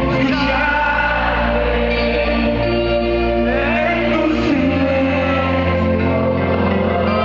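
Live Christian pop music from a concert: a voice singing a bending melody over held keyboard chords and a steady bass.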